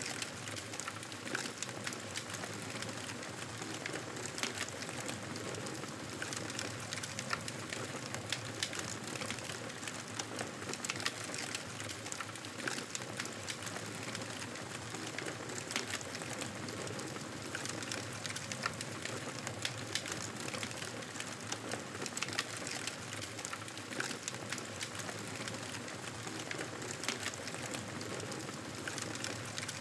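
Campfire burning, with many irregular sharp crackles and pops over a steady hiss.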